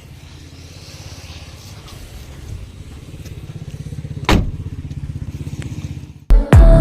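A vehicle engine runs with a low, fast, even pulsing rumble that grows louder. About four seconds in there is a short sweep falling in pitch, and near the end music cuts in with a deep bass hit.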